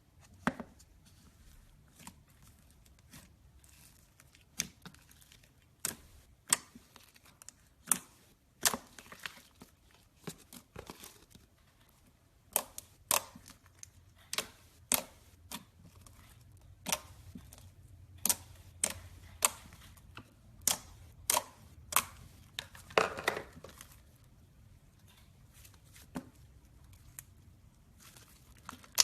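Slime mixed with styrofoam foam beads being squeezed and pressed, giving sharp pops and crackles at irregular intervals, with a longer crackling stretch about 23 seconds in.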